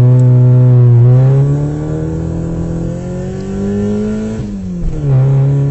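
Car engine accelerating: its pitch holds, then climbs steadily, falls sharply at a gear change about four and a half seconds in, and settles again.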